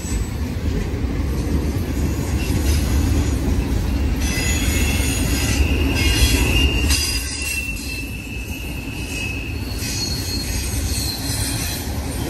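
A train rolling past over a steady low rumble. Its steel wheels squeal on the rails for several seconds in the middle, as a thin high squeal.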